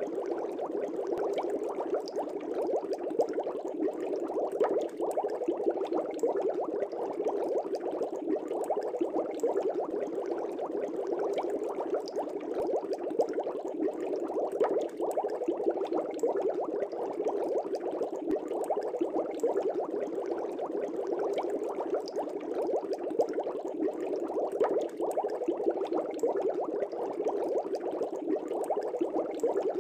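Fish-tank air bubbles, a steady, continuous bubbling full of small pops that keeps an even level throughout.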